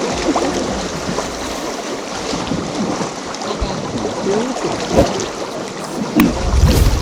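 River water rushing and splashing over rapids, with wind on the microphone and a low rumbling bump near the end.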